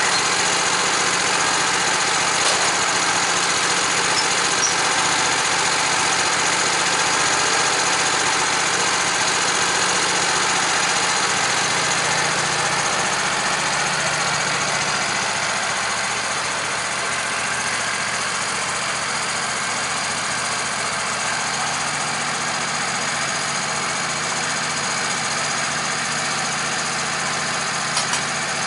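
Engine of a small sawmill running steadily while it cuts a log into boards. The level dips slightly a little past halfway.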